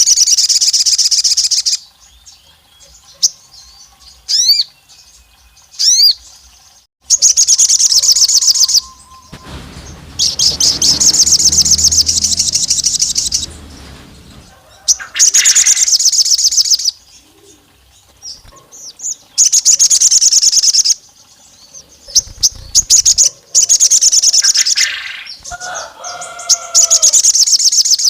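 A sogon songbird singing long, very rapid, high-pitched trilled phrases, each a couple of seconds long, about six times, with short chirps between them. This is the 'nembak panjang' long-burst song used as a lure to provoke rival males.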